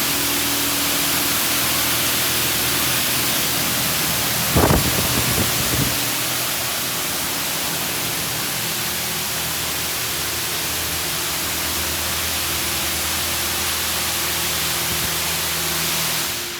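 Touchless automatic car wash spraying water jets against the car, heard from inside the car as a steady loud hiss with a motor hum underneath. A few sharp knocks come about four and a half to six seconds in, and the spray stops just before the end.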